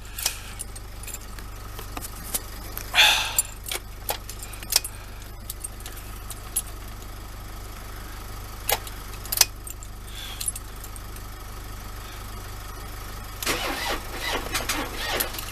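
Ford Transit Mk7 2.4 diesel being cranked by its starter without firing, with scattered sharp clicks: a flat battery on the van, and the engine freshly disturbed by injector seal replacement.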